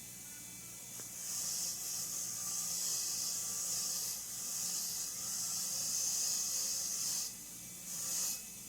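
Pressurized spray hissing in a long blast of about six seconds, then a short second blast near the end, as small screws are blasted clean of built-up gunk. A faint steady low hum runs underneath.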